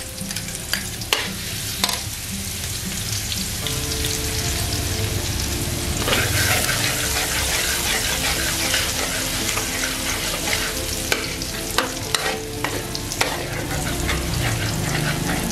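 Minced shallots and garlic sizzling in hot oil in a wok as they fry toward golden, stirred with a metal spatula that scrapes and taps the pan now and then. The sizzle grows louder about six seconds in.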